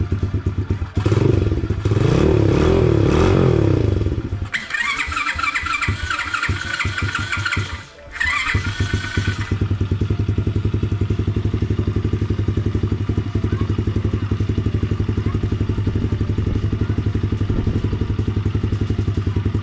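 Trailmaster TM15's 110cc single-cylinder four-stroke engine running, revved up and back down once about a second in. A higher-pitched noise lies over it for several seconds in the middle; the engine dips briefly about eight seconds in, then settles into a steady, even idle.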